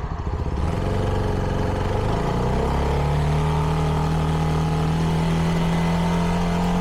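CFMoto 300NK's single-cylinder engine through its stock exhaust, pulling away from low revs. The revs drop with a gear change about two seconds in, then climb steadily under acceleration.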